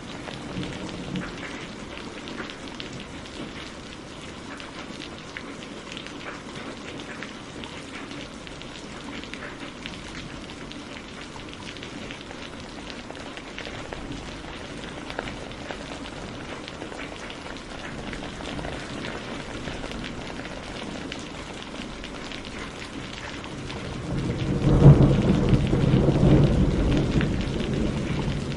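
Backyard campfire crackling steadily with scattered pops. About 24 seconds in, a louder low rumble swells for a few seconds and then eases.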